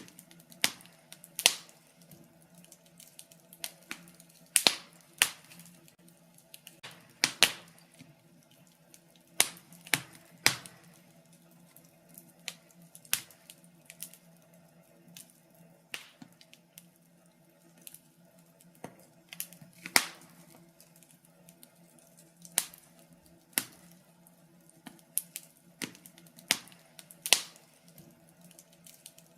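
Wood fire in a fireplace crackling, with sharp pops and snaps at irregular intervals, roughly one a second. A faint steady hum runs underneath.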